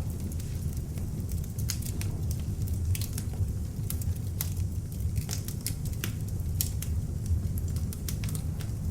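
Beech-wood log fire burning in an open fireplace: a steady low rumble of flames with frequent irregular crackles and pops of the burning wood.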